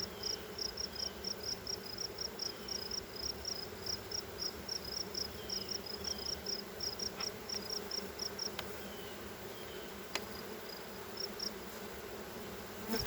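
Honey bees buzzing steadily around an open hive, disturbed and agitated. A high, regular chirping repeats about three to four times a second until about two-thirds of the way through, and a few sharp clicks sound late on.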